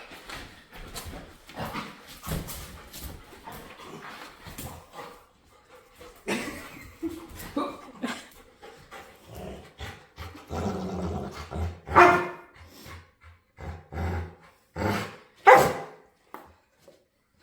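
Pet dog barking and vocalising in short, irregular bursts, loudest about twelve and fifteen and a half seconds in: a playful dog barking to demand more play.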